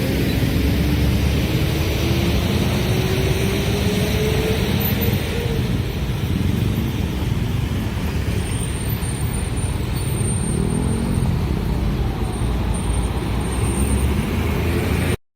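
Train passing close by with a loud, steady rumble and rattle, and a tone that rises slowly in pitch over the first five seconds. The sound cuts off abruptly just before the end.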